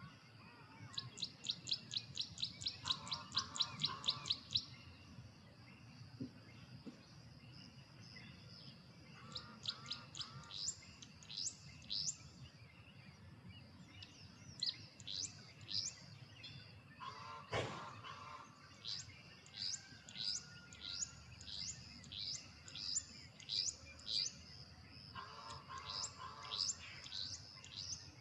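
Carolina wren singing its ringing, repeated song, a fast run of notes near the start and slower repeated series after. A single sharp click partway through.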